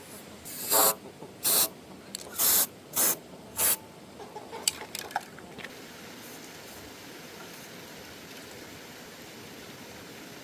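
Five short hissing spray bursts, each well under half a second, about a second apart, followed by a few light clicks and taps.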